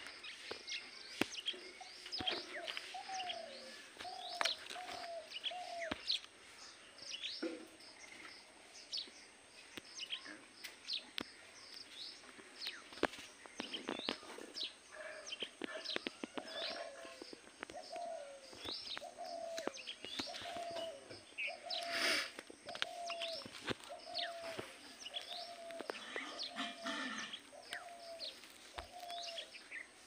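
Birds calling: many short, quick chirps throughout, over a low call repeated about once a second in two runs. About two-thirds of the way through, one short harsher burst stands out as the loudest sound.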